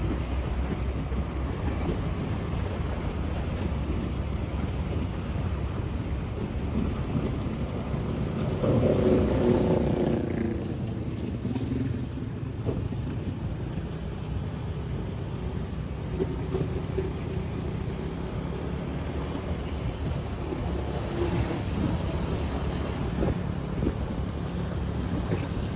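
Motorbike running on the move, a steady low engine rumble with wind buffeting the microphone; it swells briefly about nine seconds in.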